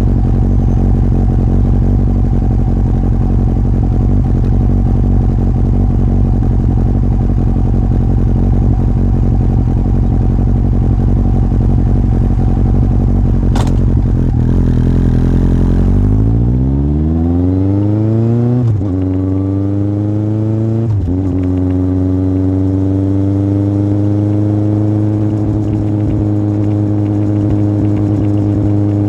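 Yamaha Fazer 1000 inline-four with an aftermarket MIVV exhaust, ridden at a steady speed and then accelerating. The engine note rises through two quick upshifts and settles into a steady cruise.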